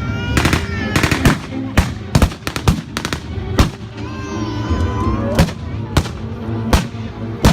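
Irregular gunfire: single blank shots, some in quick clusters of two or three, roughly every half second to second, over a steady background of music and voices.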